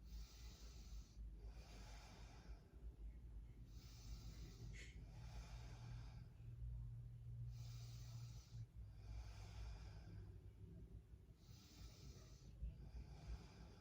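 Faint, slow, deep breathing from a person lying on a yoga mat: about eight soft, airy breaths in and out, each roughly a second long, at an even pace. A light click comes a little under five seconds in.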